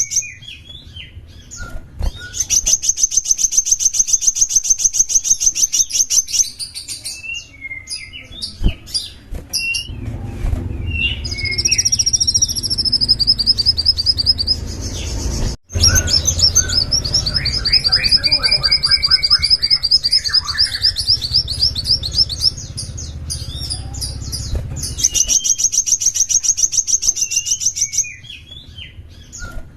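Small songbird singing: long, very fast high-pitched trills held for several seconds at a time, broken up by short chirps and sliding notes.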